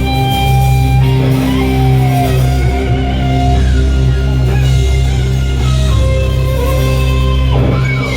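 Rock band music with no singing: a guitar plays a melody of held notes, some sliding in pitch, over a steady, heavy bass.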